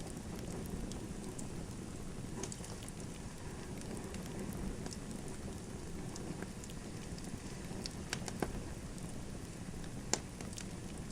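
Wood fire burning in a fireplace: a steady low rush with scattered sharp crackles and pops, the loudest pop about ten seconds in.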